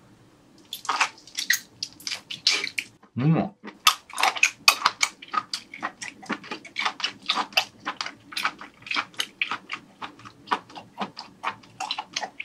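Close-miked wet chewing of a skinned boiled octopus tentacle: quick squelching, smacking mouth clicks, about four a second. A short hum of the voice comes about three seconds in.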